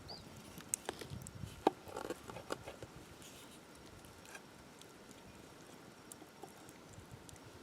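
A scatter of small clicks and light taps, thickest in the first three seconds, then only a few faint ticks.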